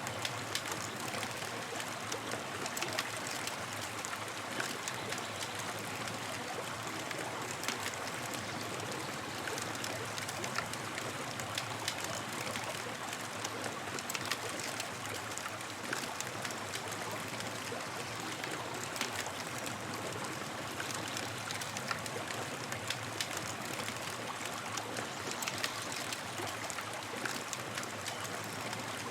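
Campfire crackling: a steady hiss with frequent small sharp pops and snaps from the burning wood.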